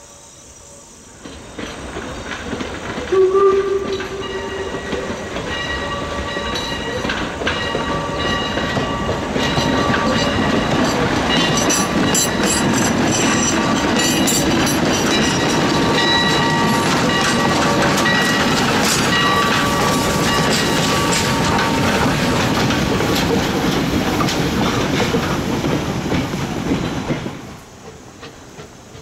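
Heritage steam train's passenger cars rolling past close by, wheels clicking over the rail joints with a steady metallic ringing. A short, loud tone sounds about three seconds in. The sound builds in about a second in and cuts off abruptly near the end.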